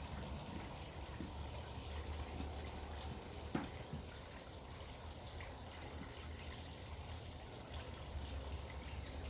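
Water dripping and trickling into a pool, with scattered drops and one sharper splash about three and a half seconds in, over a low steady hum.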